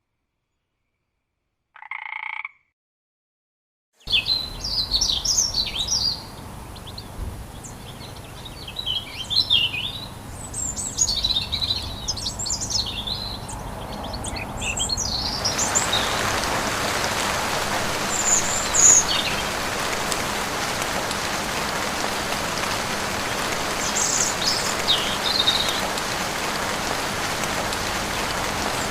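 Near silence broken by a single short croak about two seconds in, then forest birds chirping and whistling in quick high calls. About halfway a steady rain hiss sets in, with a few bird calls still heard over it.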